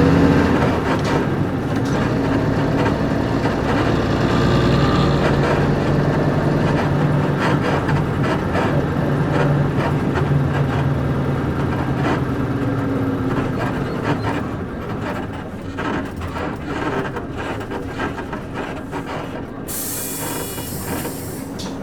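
Interior running sound of a Nissan Diesel KC-UA460LSN one-step city bus: its PG6 diesel engine runs steadily under way, then eases off as the bus slows, with creaks and rattles from its leaf-spring suspension. A short hiss of air comes near the end.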